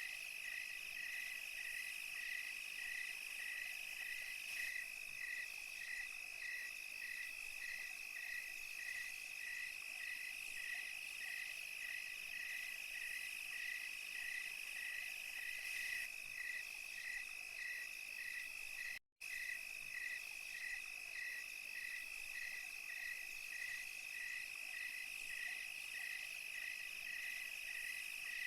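Night insect chorus of crickets and other insects: a steady high trill, with one insect chirping evenly about twice a second over it. The whole chorus cuts out for a split second about two-thirds of the way through.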